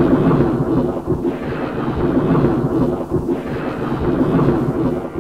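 A thunderstorm: loud, continuous rumbling thunder with rain, easing slightly toward the end.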